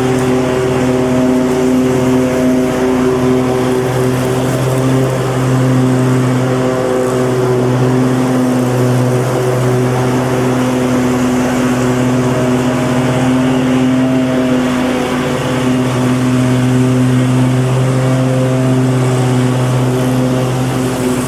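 Lawn mower engine running steadily at constant speed, a loud even drone with a little wavering in its lowest tone.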